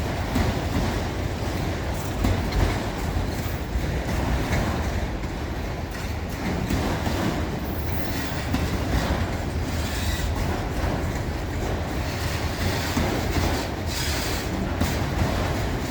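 Train rolling past, a steady rumble of steel wheels on the rails with clicking over the rail joints.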